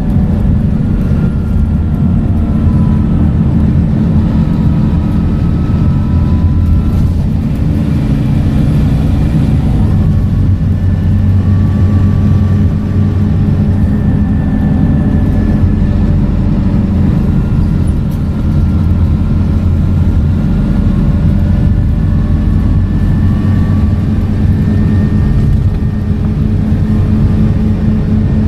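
Scania K230UB bus's nine-litre five-cylinder diesel and ZF automatic gearbox running under way: a steady deep engine hum with a gearbox whine that shifts in pitch in stretches as the bus pulls and changes gear.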